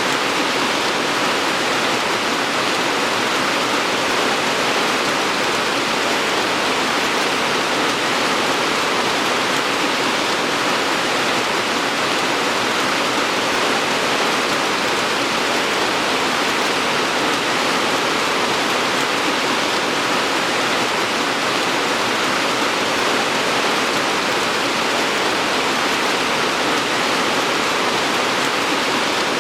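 Steady rain: an even, unbroken hiss with no single drops or other sounds standing out.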